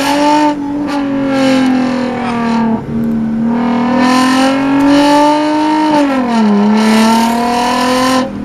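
Toyota Mark X's V6 engine running through a one-off exhaust under acceleration. Its note climbs, breaks off briefly about three seconds in, climbs again, drops quickly about six seconds in, then holds steady.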